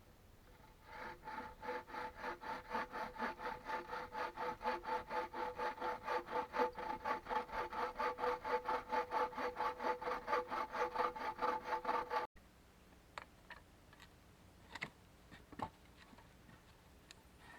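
Hand saw cutting through wood in fast, even back-and-forth strokes, the blade ringing as it goes. The sawing stops abruptly near the end, leaving a few faint ticks.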